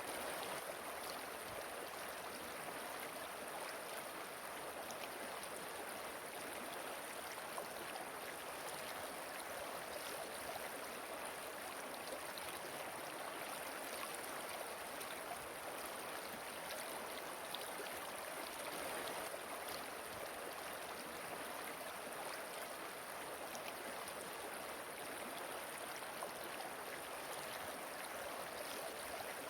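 Steady rush of flowing water from a waterfall, an even hiss with no change in level.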